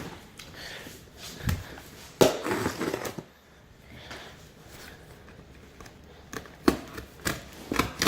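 Cardboard box sealed with packing tape being handled and worked at: irregular scraping, crackling and knocks.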